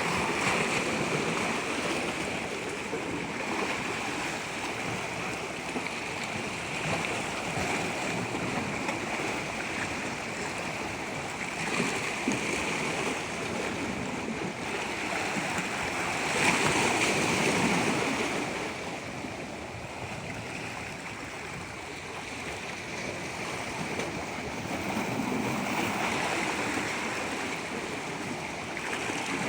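Moving water rushing steadily with no other sound over it, slowly swelling and easing every few seconds and loudest a little past halfway.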